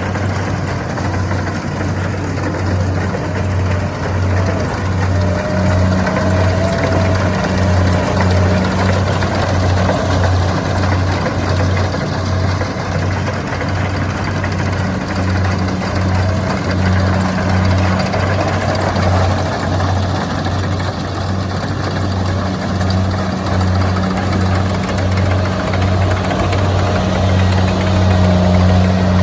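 Kubota combine harvester running steadily while harvesting rice, its engine giving a strong low hum that pulses evenly about one and a half times a second under a haze of machinery noise.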